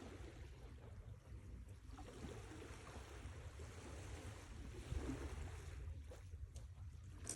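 Sea waves: a steady rushing wash with a deep low rumble, swelling briefly about five seconds in.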